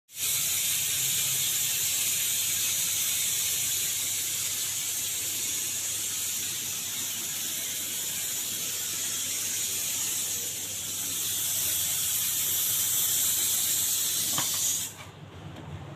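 High-pressure spray jet washing a window air conditioner: a steady high hiss with a faint low hum underneath, stopping suddenly about fifteen seconds in.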